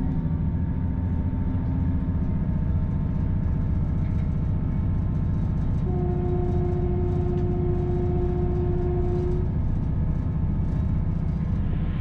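Steady rumble of a moving train heard from inside the carriage, with a steady whine for a few seconds about halfway through.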